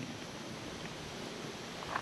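Quiet, steady background hiss of ambient noise with no distinct event.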